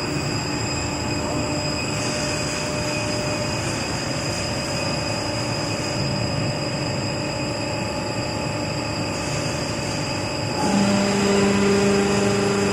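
Pipe elbow forming machine running: a steady mechanical din with constant whines over it. About eleven seconds in, a louder steady hum joins.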